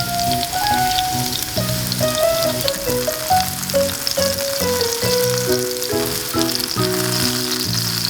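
Food sizzling and crackling in a hot frying pan, under background music with a melody of held notes.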